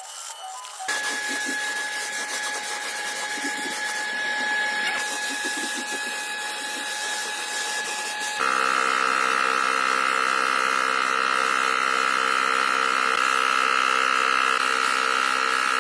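Electric power tool motor running steadily with a constant whine. About eight seconds in, a louder and richer steady motor sound takes over.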